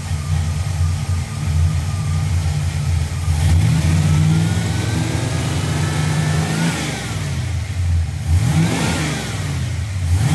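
Carbureted 306 small-block Ford V8 idling, then revved by hand at the throttle: it rises about three and a half seconds in, holds for about three seconds and drops back, then comes up and down again more briefly near the end. It is being held above 2,000 rpm to check the ignition timing that the retard box pulls.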